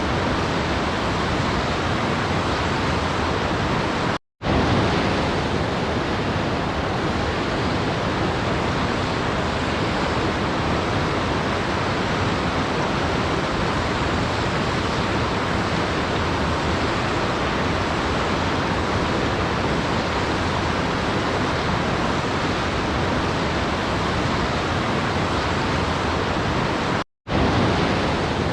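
Steady, even rushing of falling water, a waterfall's continuous hiss. It cuts out to silence for a split second twice, about four seconds in and near the end, where the recording loops.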